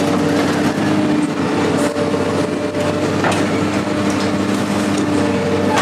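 A large engine running steadily, with a few sharp knocks about two and three seconds in.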